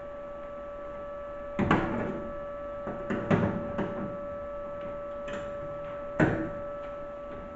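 A steady hum, with a few short knocks over it: one a little under two seconds in, a quick cluster about three to four seconds in, and one after six seconds.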